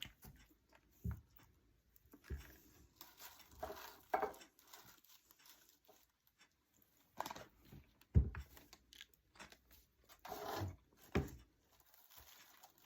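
Irregular handling sounds of small craft pieces being moved and set down: light knocks and short rustles, with the sharpest knock about eight seconds in.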